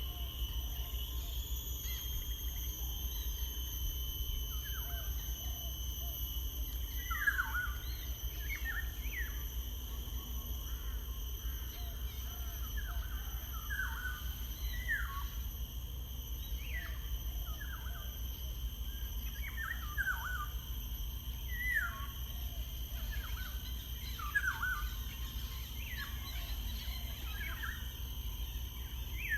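Small birds calling outdoors: short, downward-sweeping chirps repeated every second or so, becoming more frequent partway through, over a steady high-pitched tone and a low background rumble.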